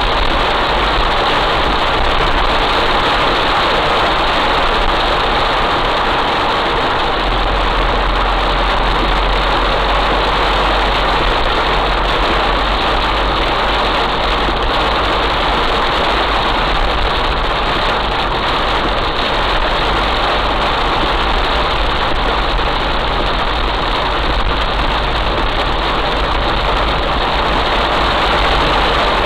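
Heavy rain falling steadily, with an engine running underneath as a constant low rumble.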